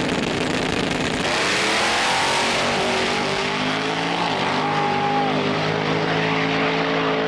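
Drag race car engine at full throttle: the noise jumps about a second in and the engine's pitch climbs, then holds high with a brief dip in pitch about four and a half seconds in.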